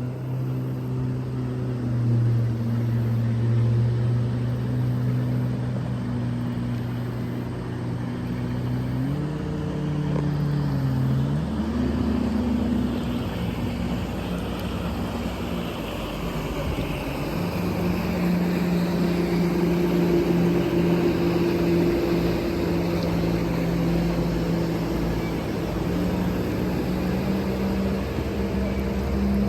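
An engine running steadily with a low, humming note. Its pitch steps up about nine seconds in, drops back a couple of seconds later, and settles at a higher pitch from about seventeen seconds on.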